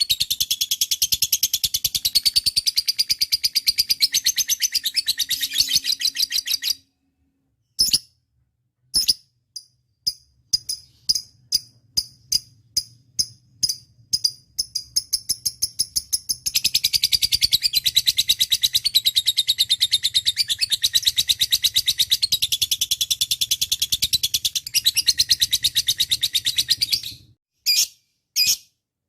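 Lovebird giving a long, very rapid, high chattering trill that breaks off about seven seconds in. It follows with a run of separate chirps that quicken into a second long trill of about ten seconds, then a few single chirps near the end.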